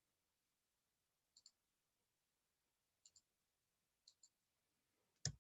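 Faint computer mouse clicks, each a quick press-and-release pair, coming about every one to two seconds, with a louder knock near the end.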